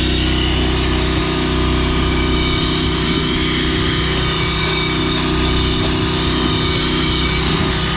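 Pressure washer running steadily while the wet sandblaster kit sprays sand-laden water, a constant engine drone under a steady hiss of spray.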